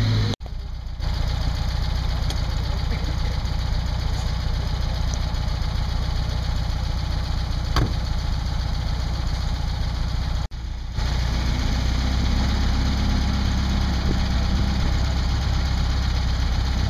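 Classic car engines idling and running at low speed, a steady low hum. The sound drops out briefly twice, about half a second in and about ten seconds later, where the shots change.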